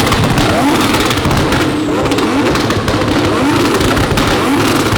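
Several supercar engines, among them a Lamborghini Aventador SV's V12, a McLaren 600LT's and a twin-turbo Huracán's, revving hard at the same time. There are overlapping quick rising revs over and over, with a steady crackle of exhaust pops.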